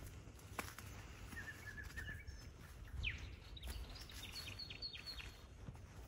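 Small songbirds calling: a short trill about a second and a half in, a quick falling chirp around halfway, then a run of high quick notes near the end, over a low steady rumble and a few faint clicks.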